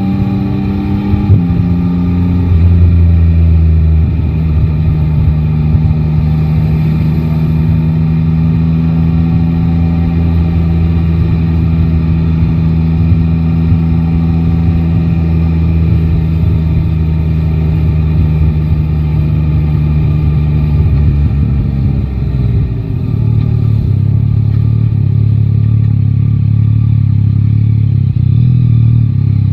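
Yamaha Tracer 9 GT's inline three-cylinder engine on the move. The note steps about a second in, then holds an even engine speed for a long stretch. About three quarters of the way through it drops off and settles to a lower, steady note as the bike eases off.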